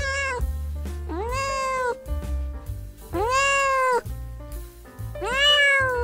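Domestic cat meowing four times, a short meow and then three longer ones about two seconds apart, each rising and then falling in pitch, over background music.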